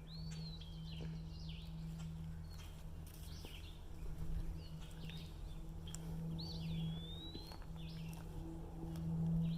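Wild birds calling: scattered short chirps and two longer slurred whistles, one right at the start and one about six and a half seconds in. A steady low hum runs underneath.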